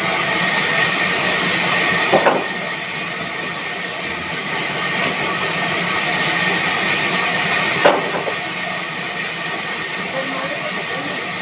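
Sawmill machinery running with a steady high hiss, broken by two brief knocks, one about two seconds in and another past the middle.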